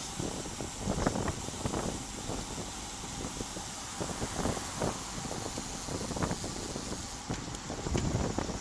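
Wind rushing over a bike-mounted action camera's microphone while riding, a steady rush broken by stronger gusts every second or two.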